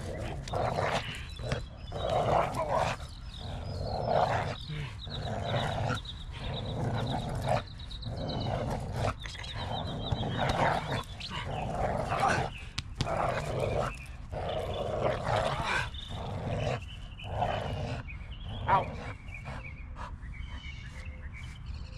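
Dog growling in repeated rough bursts, about one every second or two, while gripping a bite suit in protection training.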